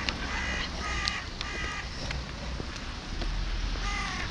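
Crows cawing: a quick run of short caws, then another caw near the end.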